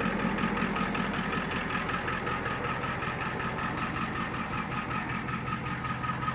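A 1994 Ford F Super Duty's 7.3 IDI diesel engine idling steadily, with a steady high tone running through it.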